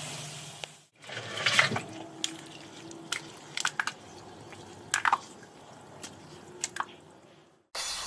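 A steady hiss that cuts off about a second in, then liquid dripping and spattering in scattered single drops and splats, a few seconds apart.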